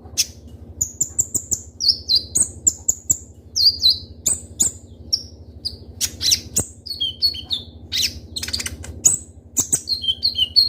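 Kolibri ninja (purple-throated sunbird) singing hard: a rapid string of sharp, high-pitched chirps and short downward-sliding notes in quick bursts, mixed with dry clicks, over a steady low hum.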